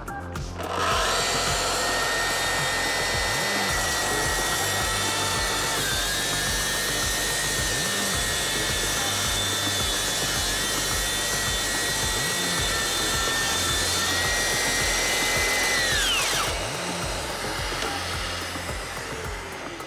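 Festool TS 60K plunge track saw with its brushless motor starting up about a second in and running at a steady high whine through a cut. It switches off near the end and winds down with a falling whine.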